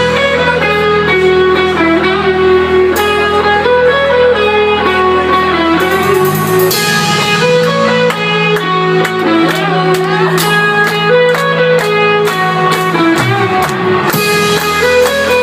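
Live band playing an instrumental passage: electric guitar picking a melody over sustained bass notes, with cymbal strokes.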